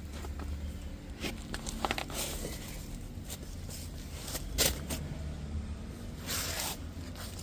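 Small parts and packaging being handled: scattered light clicks, brief rustling scrapes and a sharper click about four and a half seconds in, over a low steady hum.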